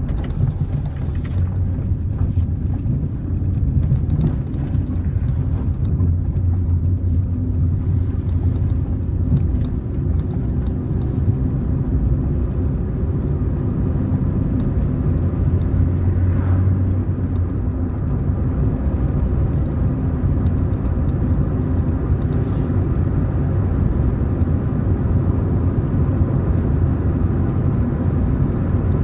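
Car being driven along a road: a steady low rumble of engine and tyre noise.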